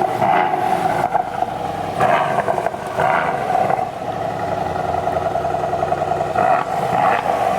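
V8 engine of a Mercedes-AMG C63 S running with a deep rumble, its sound swelling a few times.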